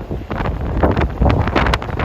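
Strong wind buffeting the microphone in gusts, a loud low rumble that swells about a third of a second in.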